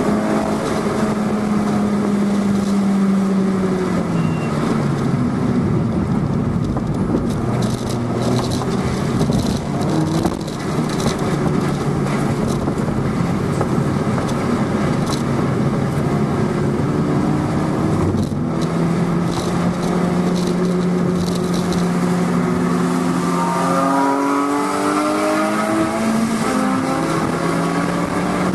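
In-cabin sound of a 2011 MINI Cooper S's turbocharged 1.6-litre four-cylinder engine under track driving. The engine note falls and rises with throttle and gear changes, climbing steeply near the end under acceleration.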